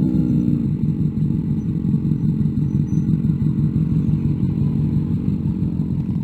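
Motorcycle engine running at low revs. Its pitch falls during the first second as the bike slows, then it settles into a steady, pulsing low rumble.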